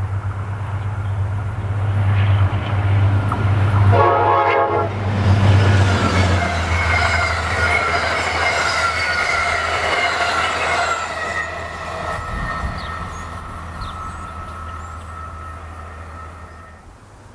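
A train passing with a brief chord-like signal blast about four seconds in, then rolling wheel and rail noise that slowly fades away.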